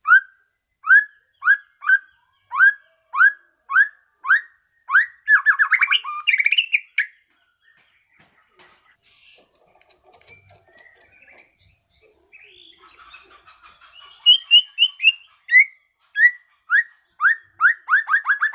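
White-rumped shama (murai medan) singing: loud, sharp, downward-sliding whistled notes about two a second, running into a fast trill, then softer twittering, and the sharp notes again, quickening near the end.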